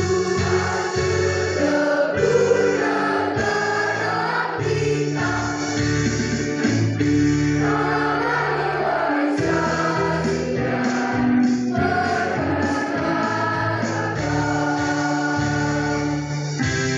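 Junior high school choir singing, the voices holding long notes that change every second or so over steady low notes.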